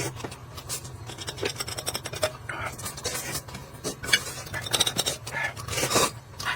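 Eating utensils scraping and tapping against dishes during a meal: a string of short, irregular clicks and scrapes.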